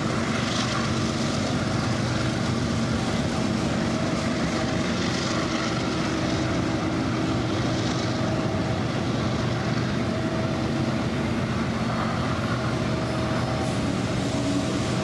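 Freight train passing: diesel locomotives working under load up a grade give a steady engine drone, over the rolling noise of the freight cars on the rails.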